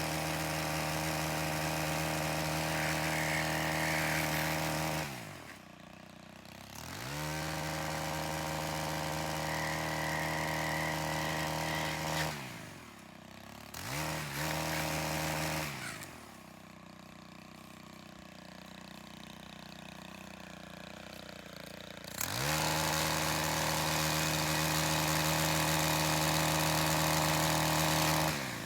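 Two-stroke chainsaw held at full throttle while cutting up branches. It drops back to idle about five seconds in, again around twelve seconds, and for several seconds from about sixteen seconds, then revs back up to full throttle for the last six seconds.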